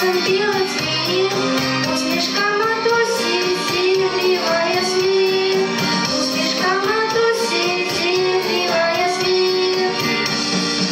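A song sung by a young voice over instrumental backing music.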